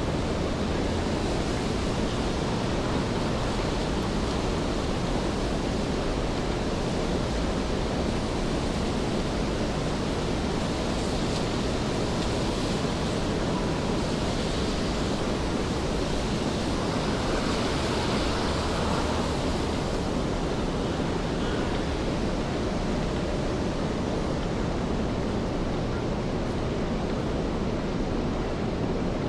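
Steady rainfall, an even hiss of rain on wet city pavement, with a slight swell in the middle.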